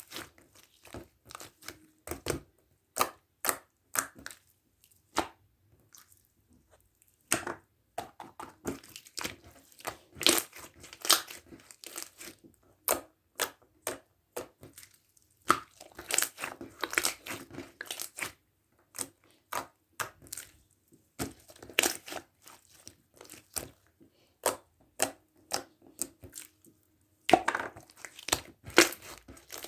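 Glitter foam-ball slime (floam) being squeezed and kneaded by hand: the foam beads crunch and crackle in irregular runs of sharp clicks, with a few short pauses.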